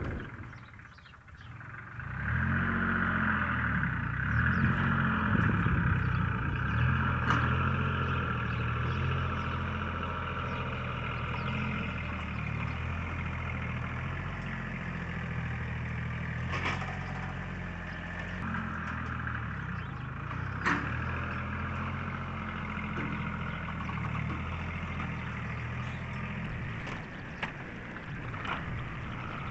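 Farm tractor engine running steadily, coming in about two seconds in, with a couple of sharp metallic knocks along the way.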